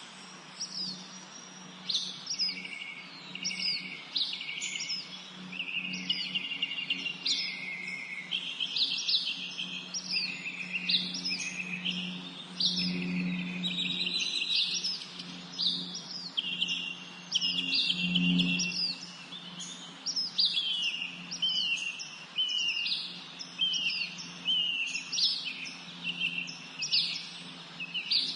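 Several songbirds singing and chirping together, a dense run of quick, high, falling chirps and short trills that repeat throughout. A low steady hum lies underneath.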